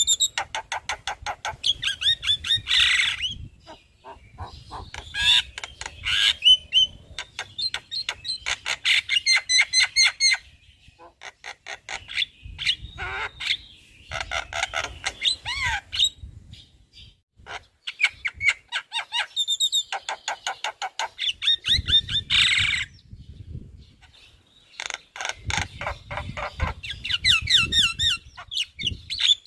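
Javan myna singing at full energy: long phrases of rapid, repeated chattering and squawking notes, with short pauses between phrases.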